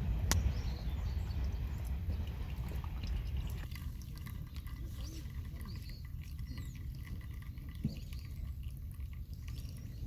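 Outdoor ambience: a low rumble that eases off about four seconds in, under many small chirping calls, with a sharp click right at the start.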